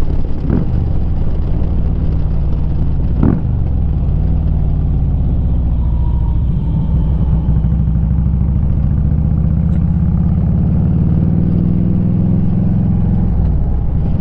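Harley-Davidson Twin Cam 96 V-twin running through a Rinehart 2-into-1 single-side exhaust while the bike is ridden. The engine note is steady, climbs slowly in pitch over the second half, and falls away near the end.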